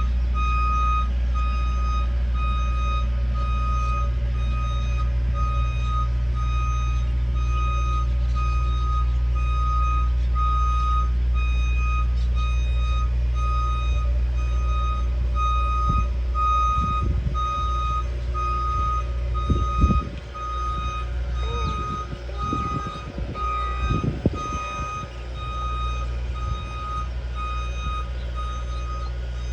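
A heavy vehicle's reversing alarm beeping over and over at one steady pitch, with its engine running in the background. There are a few clunks in the second half.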